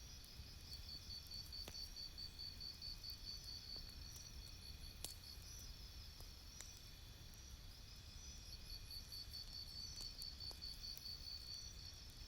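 Campfire crackling faintly, with scattered pops and one sharper pop about five seconds in. Under it runs a high, fast-pulsed chirping in two spells, from about a second in and again from about eight seconds in.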